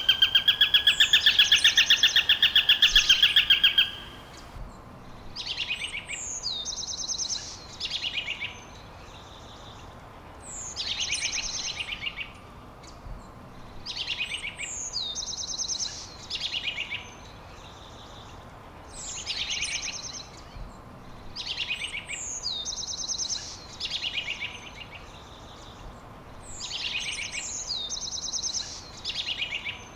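Songbirds singing. A loud, rapid trill runs for the first four seconds, then a bird repeats the same short phrase about every three seconds: a high falling note followed by a quick run of notes.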